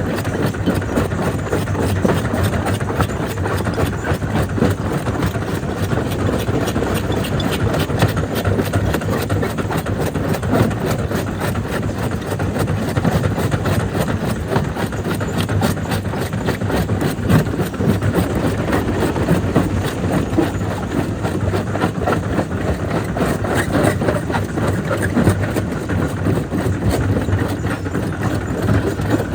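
Jaw crusher running and breaking stone: a steady machine drone with a dense, irregular clatter of rock knocking and cracking in the jaws.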